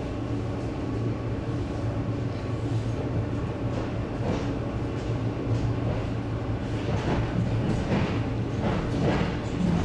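ED9M electric multiple unit running, heard from inside the car: a steady low hum with wheels clacking over rail joints, the clacks coming from about four seconds in and closer together toward the end.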